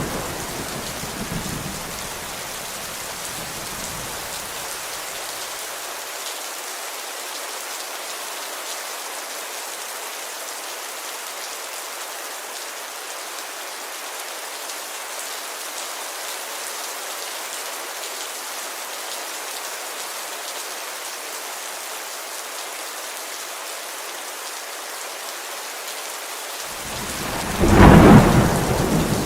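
Steady rain pattering on a window glass, with the low rumble of thunder dying away over the first few seconds and a loud thunderclap rolling in near the end.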